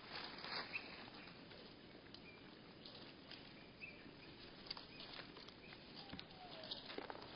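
Faint bird-feeder sounds slowed to one-third speed: scattered taps and clicks with short chirps lowered in pitch, and two slow falling whistles near the end.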